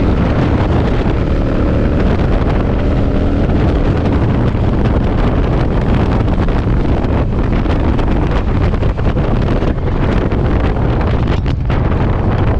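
Heavy wind buffeting the microphone on a moving Yamaha V-Star V-twin motorcycle in strong gusts, a dense rumbling roar that drowns most of the bike. The engine's note shows through faintly and shifts in pitch a second or two in.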